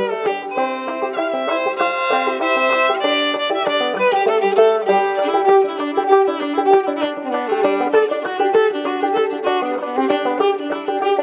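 Clawhammer banjo and fiddle playing an old-time fiddle tune together: the fiddle carries the bowed melody over the banjo's steady frailed picking.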